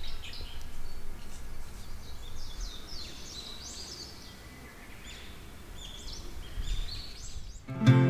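Small birds chirping in many short calls over low rumbling background noise. Near the end an acoustic guitar piece starts abruptly.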